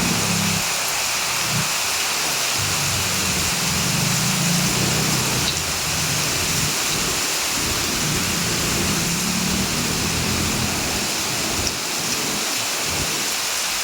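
Heavy rain falling steadily in a dense, even hiss, with a low rumble swelling and fading underneath.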